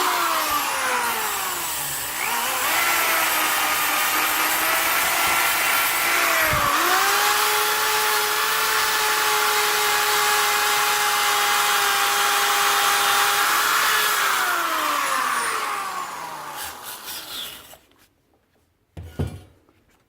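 Power tool spinning a fiber abrasive wheel against the winch housing, stripping powder coat and rust. The whine drops in pitch as the wheel is pressed into the metal, and dips sharply once about six seconds in before recovering. It then runs steady, winds down after about fourteen seconds and stops, followed by a single short knock.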